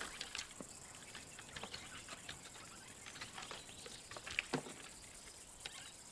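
Faint scattered scratching and rustling of a lion's claws on tree bark as it climbs, with one slightly louder brief scrape about four and a half seconds in.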